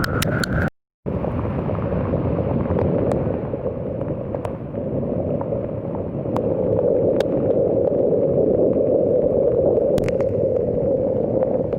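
Heavy rain: a steady rushing hiss with scattered sharp ticks of drops striking close by, cutting out for a moment just under a second in.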